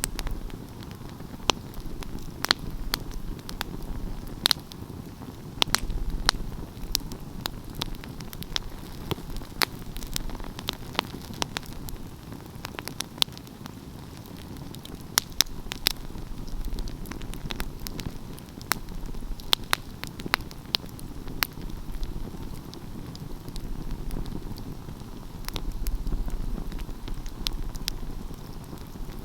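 Wood fire crackling: frequent, irregular sharp pops and snaps over a low, steady rumble of the burning flames.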